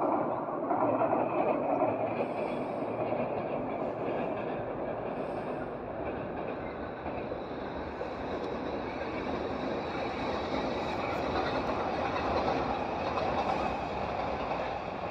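Train crossing a steel truss railway bridge: a steady running noise of wheels on rails, loudest in the first couple of seconds.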